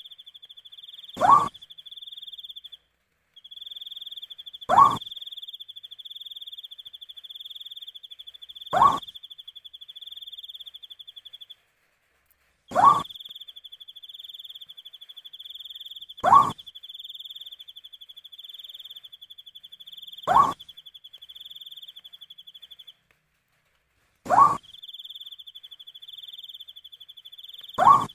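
An owl giving a short, rising call about every four seconds, eight times in all. Behind it a cricket trills steadily, breaking off briefly now and then.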